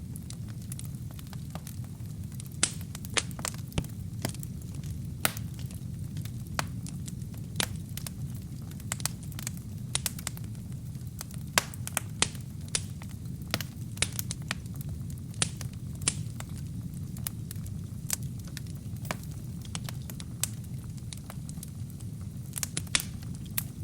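Wood fire burning with a steady low rumble of flames and frequent sharp, irregular crackles and pops from the burning logs.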